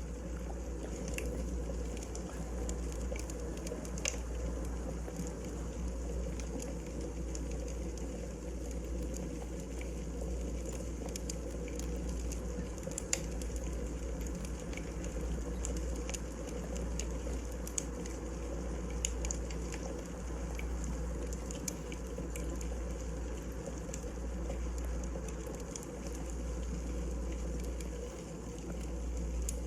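Wood fire crackling in a fireplace: a steady low rush with scattered sharp pops and snaps.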